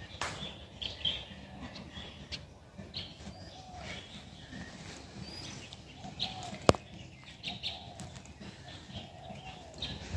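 Small birds chirping: many short, scattered high calls over a steady low background noise. A single sharp click about two-thirds of the way through.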